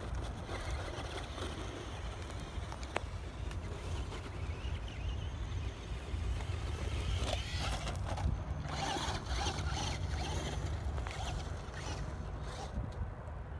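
ECX AMP Desert Buggy electric RC car driving over dirt and gravel, its tyres crunching and scraping in uneven spurts, loudest a little past halfway, over a steady low rumble.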